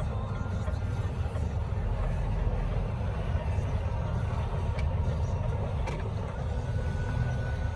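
Heavy truck on the move, heard as a steady low rumble of engine and road noise, with a couple of faint clicks.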